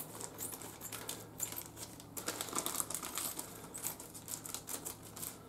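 Thin plastic sheet being handled and cut with scissors: crinkling with a quick run of small snips and clicks.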